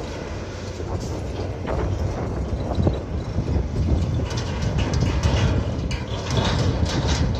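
Heavy diesel machinery running under a steady low rumble, with irregular metallic clanks and rattles that grow busier about halfway through.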